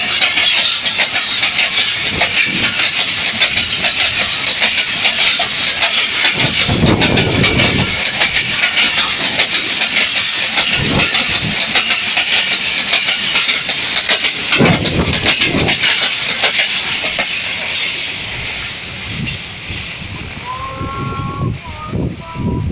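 Express train's passenger coaches passing close at speed: a steady rush of wheel-on-rail noise with rapid clicking of wheels over rail joints, easing off in the last few seconds as the train draws away. Near the end a short tone sounds a few times.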